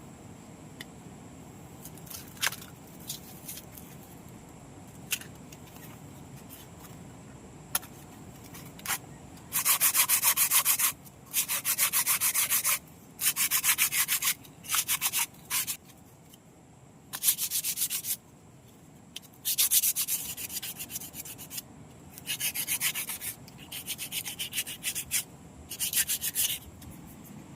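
Hand-sanding a coconut-shell utensil: a few scattered clicks at first, then repeated bursts of quick back-and-forth rubbing strokes, each burst lasting one to two seconds.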